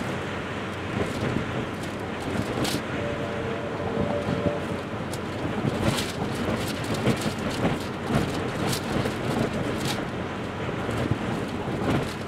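Train running on rails: a steady rumble with irregular clanks and knocks from the wheels and cars, and a brief tone about three seconds in.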